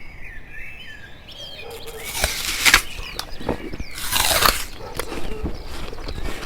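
Small birds chirping faintly, then two louder bursts of rustling and crunching, about two and four seconds in, with scattered clicks.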